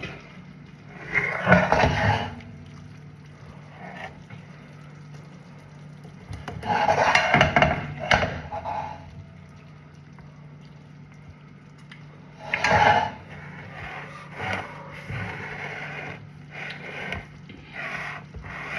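Kitchen utensils scraping and knocking against a pot or dishes, in three loud bouts and then a run of shorter strokes, over a steady low hum.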